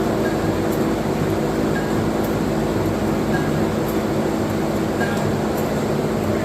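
Fairbanks-Morse 40 hp Type N stationary gasoline engine running steadily, a continuous mechanical rumble.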